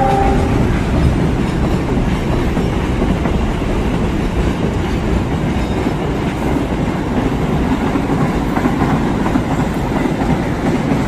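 Freight train wagons rolling past close by: a loud, steady rumble with wheel clatter over the rail joints. The tail of a horn blast cuts off right at the start.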